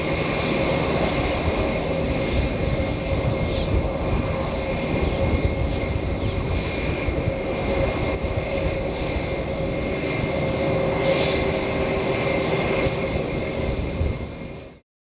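Jet airliner engines running: a steady rumble with a faint whine over it, cutting off suddenly near the end.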